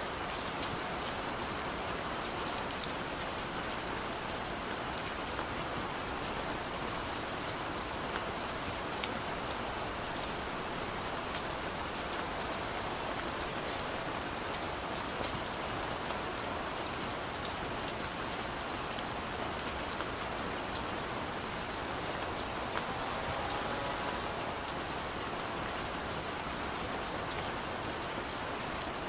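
Heavy rain falling steadily, a continuous patter with scattered sharper drop hits.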